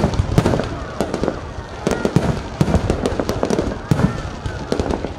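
Fireworks display: a rapid, irregular run of bangs and crackles, several a second, with no pause.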